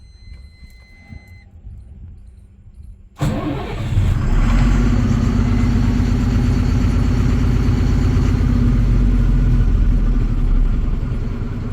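Diesel truck engine starting with a sudden catch about three seconds in, then running at raised revs and easing back toward idle near the end.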